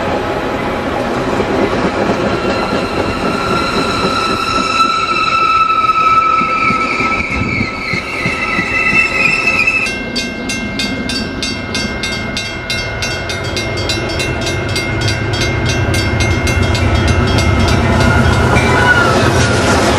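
Bilevel commuter coaches rolling past with wheel squeal rising in pitch over the first half. After a sudden change about halfway, an approaching Amtrak diesel locomotive's low rumble grows louder toward the end.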